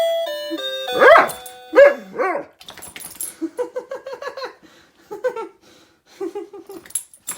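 The last notes of an electronic doorbell chime tune, answered by a dog's few rising-and-falling howls, then a run of short yelping barks: the dog reacting to the doorbell.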